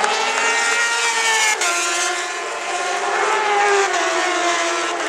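High-revving racing engines on the circuit, their pitch slowly falling and rising as they run past.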